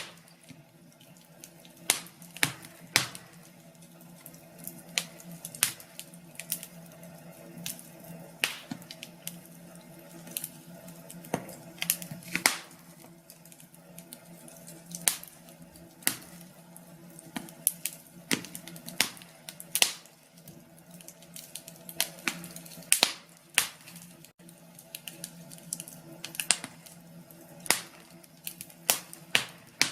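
Wood fire crackling in a fireplace: irregular sharp pops and snaps, some loud, over a faint steady hum.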